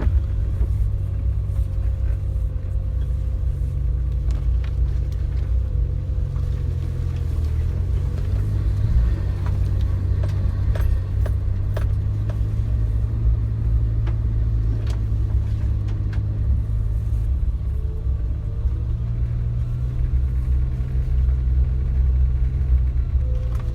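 Suzuki Jimny on the move, a steady low rumble of engine and drivetrain with scattered light rattles and clicks.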